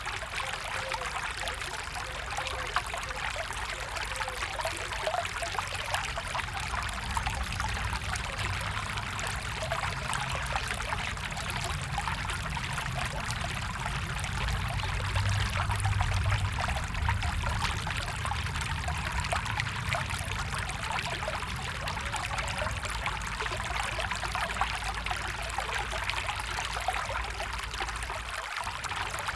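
A stream of running water, a steady trickling and pouring flow with a low rumble beneath it.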